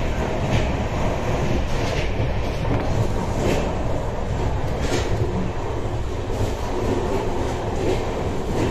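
Deccan Express passenger coach running along the track: a steady low rumble with a sharp knock about every second and a half as the wheels cross rail joints.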